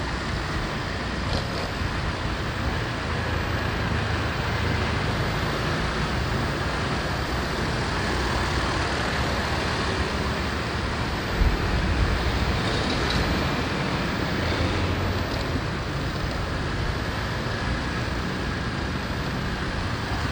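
Steady road and traffic noise heard from a motorbike riding through city streets, with a low rumble throughout and a brief knock a little past halfway.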